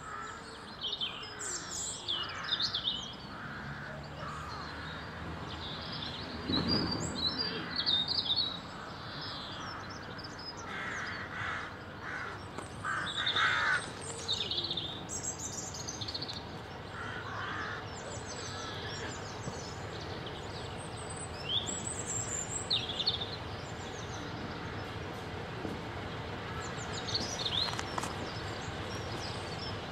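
Several birds calling at intervals, short calls scattered throughout, over a steady faint background.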